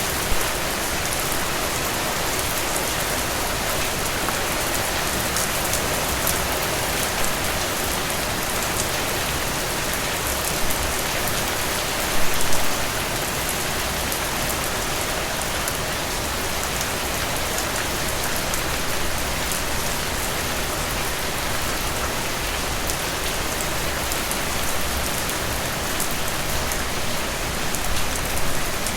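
Steady rain falling through forest trees, a dense even hiss of drops with a brief louder swell about twelve seconds in.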